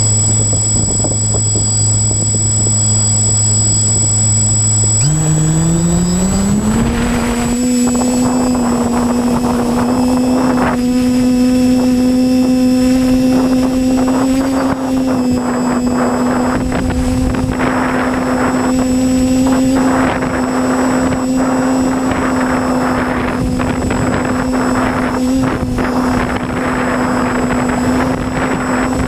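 Quadcopter's motors and propellers running with a low steady hum, then throttling up over about two seconds, about five seconds in, to a higher steady pitch that holds.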